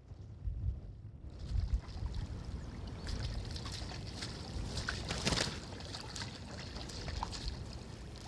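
A fire in the tandoor crackling and hissing as it catches, with scattered sharp crackles, loudest about five seconds in. A low rumble runs underneath.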